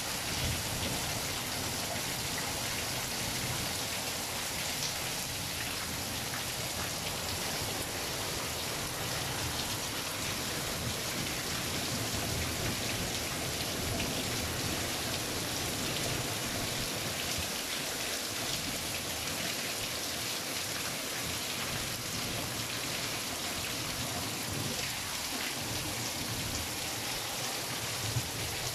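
Heavy rain pouring steadily in a thunderstorm, a dense even hiss of falling and splashing drops.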